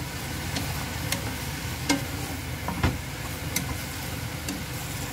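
Ground pork, onions and chopped tomatoes sizzling steadily in a frying pan while a wooden spatula stirs them. A handful of short, sharp clicks break through the sizzle.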